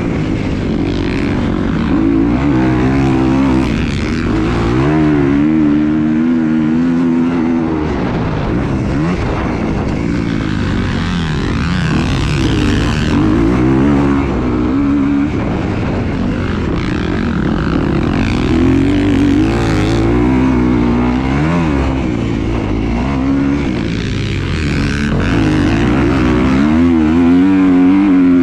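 A motor vehicle engine running continuously, its pitch rising and falling again and again as the throttle is worked.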